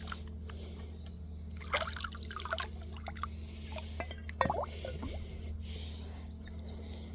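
Water dripping and trickling with small gurgles and splashes, heaviest about two seconds in and again about four and a half seconds in.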